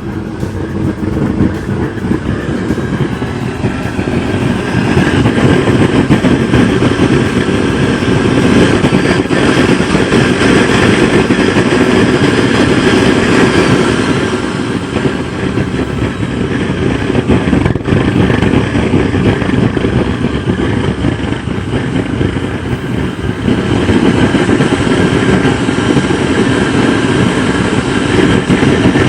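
Home-made waste oil burner running on used engine oil mixed with diesel: a loud, steady rush of burning flame and air. It grows louder a few seconds in and eases briefly twice.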